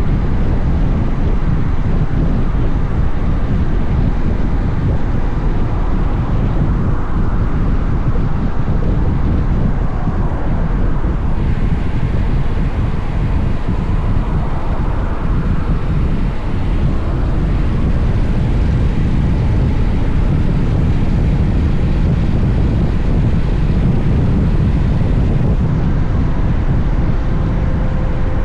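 Wind rushing over an action camera's microphone while riding a Honda X-ADV motorcycle, a steady loud low rumble, with the bike's engine and road noise underneath.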